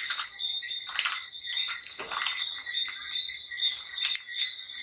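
Rustling and scratching of a steam cap being pulled over the head and adjusted around the hair, with a few short clicks. A faint steady high-pitched tone sits in the background.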